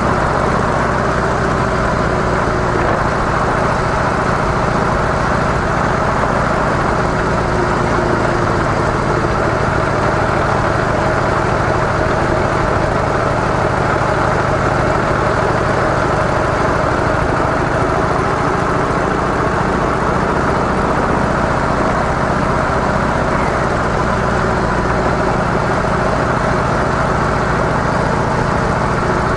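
Harley-Davidson CVO Softail Deluxe (FLSTNSE) on stock mufflers, its air-cooled Twin Cam 110 V-twin running steadily, with a constant rush of wind noise.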